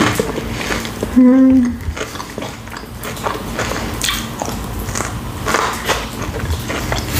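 Close-up mouth sounds of biting into and chewing a hot sandwich, with short crackly crunches throughout. About a second in comes a brief hummed "mm".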